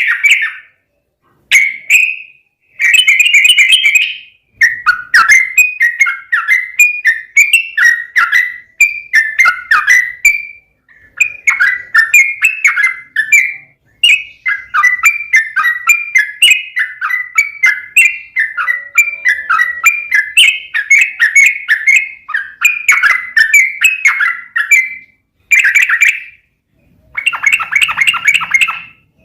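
Yellow-vented bulbul (trucukan) singing a loud, rapid chattering song, its quick notes run together in phrases of a second or more with brief pauses between them. This is the aggressive 'fighting' song.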